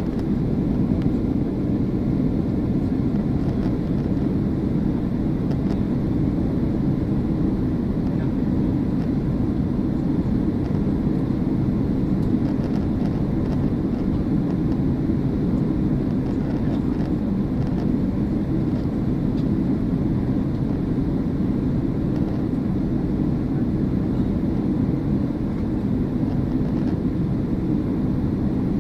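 Steady low rumble of jet engines and rushing air heard inside an airliner cabin after takeoff, even throughout.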